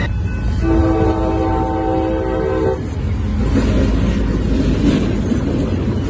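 A diesel freight locomotive's multi-note horn sounds one blast of about two seconds, starting under a second in. Then the lead CSX and Norfolk Southern locomotives rumble past close by, with a couple of knocks from the running gear.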